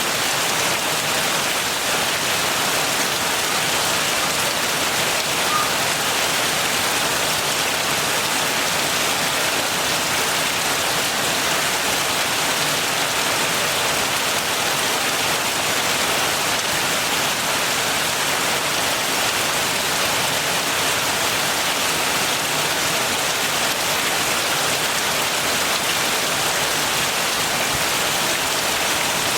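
Steady heavy rain, an even hiss of falling rain and drops hitting surfaces that holds at one level throughout.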